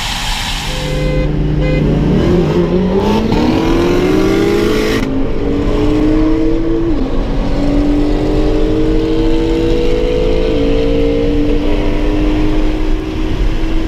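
A performance car's engine at full throttle in a roll race, heard inside the car: the revs climb steeply, then keep rising in stages, dropping sharply twice at upshifts.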